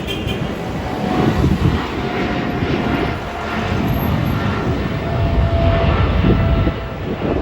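Boeing 777-200ER's jet engines running: a loud, steady rumble with faint whining tones above it.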